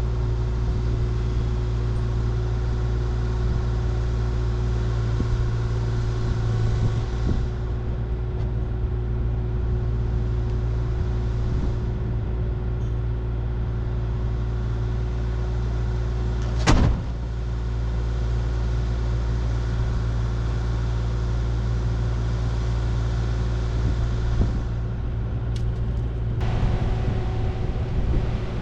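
Diesel engine of a compact construction machine running steadily with a deep hum, and a single sharp click about two-thirds of the way in.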